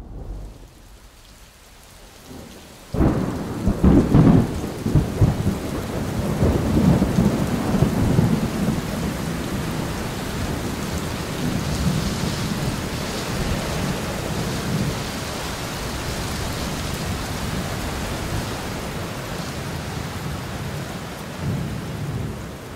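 A thunderclap about three seconds in, rumbling for a few seconds, then steady rain.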